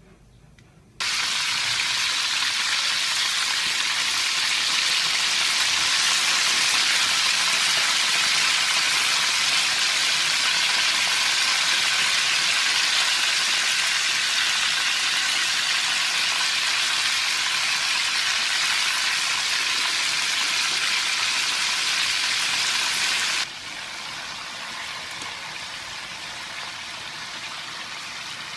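Marinated chicken pieces frying in hot oil in a wok: a loud, steady sizzle that starts suddenly about a second in and drops to a quieter sizzle near the end.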